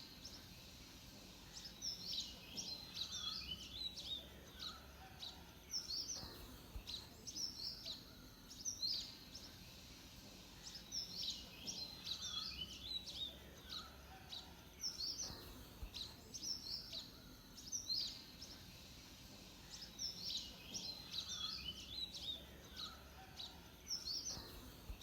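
A songbird singing outdoors, with phrases of quick, high, jumbled chirping notes every few seconds and longer runs about every nine seconds, over a faint low background rumble.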